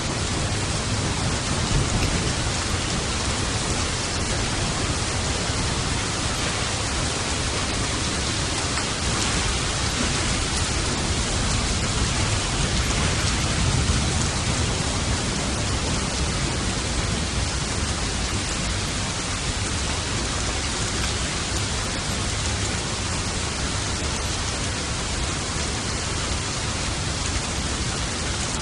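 Steady heavy rain, with low thunder rumbling in the background, loudest in the first seconds and again about halfway through.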